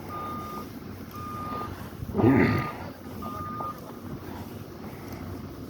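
Backup alarm of a reversing snow-clearing vehicle: four steady beeps about one a second, then it stops, over a low engine rumble. A brief louder noise breaks in about two seconds in.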